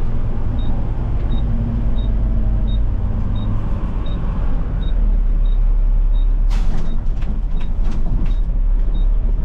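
Garbage truck engine running steadily as heard from the cab, with a faint short high chirp repeating about every 0.7 seconds. About six and a half seconds in comes a sudden hiss, followed by a string of sharp clicks and clatters.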